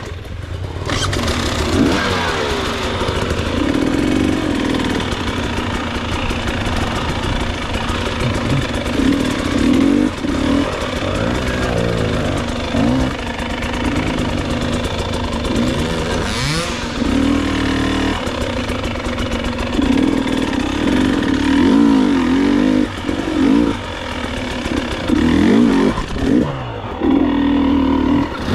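Enduro motorcycle engine revving up and down in repeated throttle bursts, the pitch rising and falling again and again.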